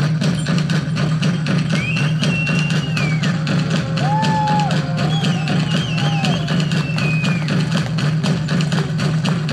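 Live band music: fast, steady drumming over a strong low bass, with a wavering melody line coming in about two seconds in and dropping out near the end.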